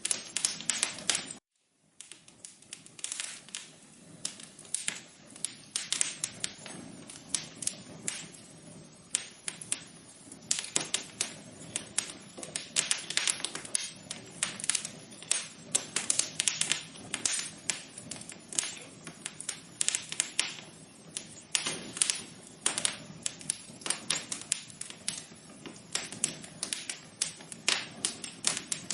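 Wood fire crackling: a dense, irregular run of small pops and snaps over a soft hiss, broken by a brief drop to silence about a second and a half in.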